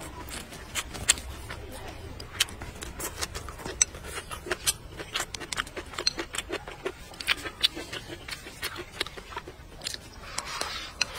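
Close-up chewing and mouth noises of a man eating rice with stir-fried vegetables: a quick, irregular run of moist clicks and crunches. Near the end comes a short slurp as he shovels rice from the bowl into his mouth.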